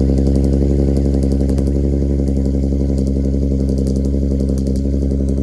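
Car engine idling steadily through a custom titanium single-exit exhaust with ART catalytic converters and titanium Y-pipe, settled just after the revs dropped, with a deep, even note.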